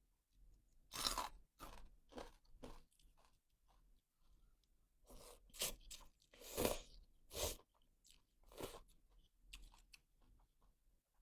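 Close-up chewing of crunchy food, a string of irregular crunches with the loudest near the middle, while eating a bowl of noodle soup topped with pork cracklings.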